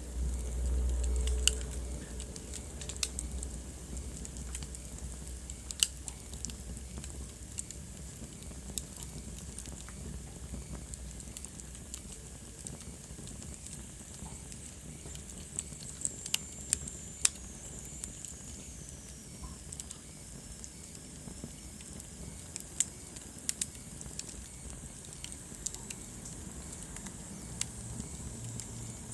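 Wood fire burning in a fireplace: a steady soft hiss with scattered sharp crackles and pops, and a low rumble in the first couple of seconds.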